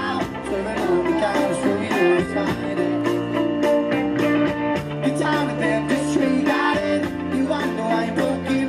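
Live rock band playing: electric guitar, bass and drums with a steady beat, and some singing.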